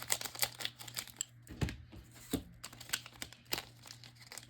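A trading card pack wrapper being torn open and handled, a quick run of sharp crinkles and clicks.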